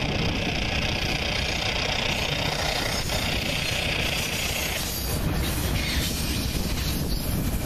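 Freight train of autorack cars rolling past: a steady low rumble of wheels on rail, with a higher steady noise that drops away about five seconds in.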